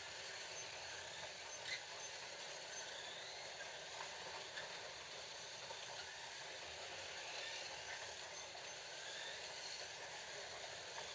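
Several Scalextric slot cars running laps on a plastic track: a steady whirring whine of their small electric motors and gears, with a few faint clicks.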